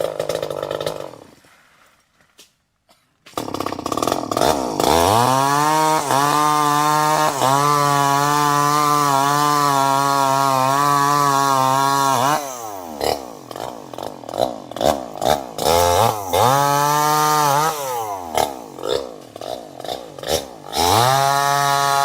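Two-stroke chainsaw engine: after a brief silent gap it picks up and revs to a high, steady pitch for several seconds, then drops back to a lower, uneven idle with a few short throttle blips, and revs high again near the end.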